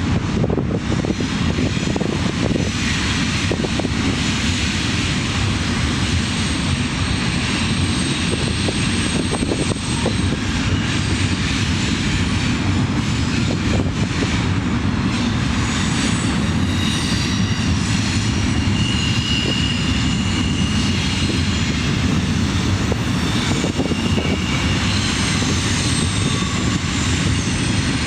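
Diesel locomotive engine running, a loud, steady sound.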